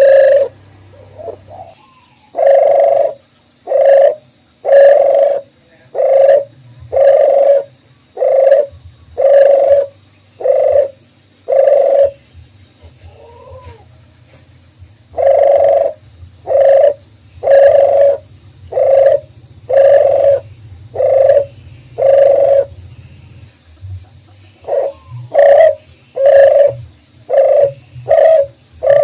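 Dove cooing: a series of low, evenly spaced coos about a second apart. After a short pause the series resumes, and the coos come quicker and shorter near the end.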